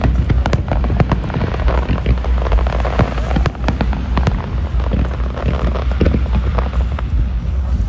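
Aerial fireworks bursting: many sharp bangs and crackles in quick, irregular succession over a steady low rumble.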